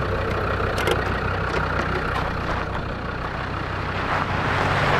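Land Rover Defender TD5's five-cylinder turbodiesel engine idling steadily.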